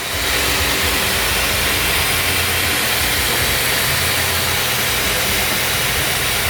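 Band sawmill machinery running: a loud, even rushing noise with a low hum under it, stepping up at the start and then holding steady.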